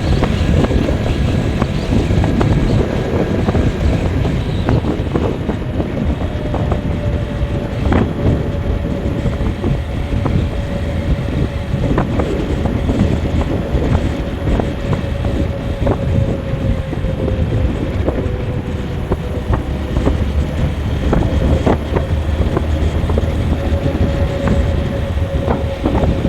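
Vehicle driving along a road: steady engine and road rumble, a faint steady whine, scattered knocks from bumps, and wind on the microphone.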